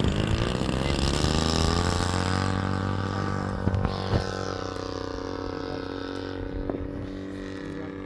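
Model airplane's GP 76 engine running at high throttle as the plane flies past: the pitch drops as it goes by, then holds steady while the sound fades as it flies away. Two or three faint knocks come about four seconds in.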